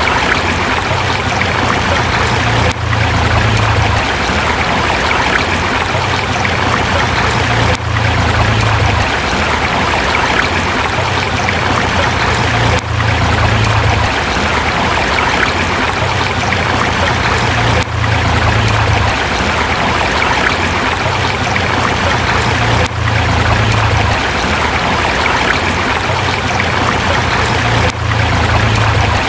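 River water rushing and splashing over rocks in a steady, full stream, with brief dips in level about every five seconds.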